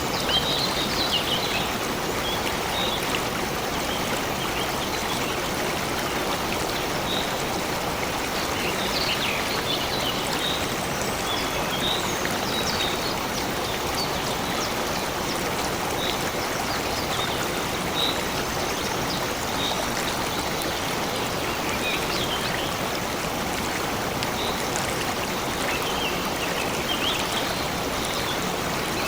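A stream running steadily, with birds chirping briefly now and then over the water.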